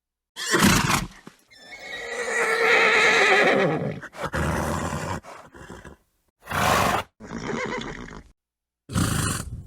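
A horse neighing: one long whinny with a falling pitch at its end, among several short, noisy snorts, the sounds broken by completely silent gaps.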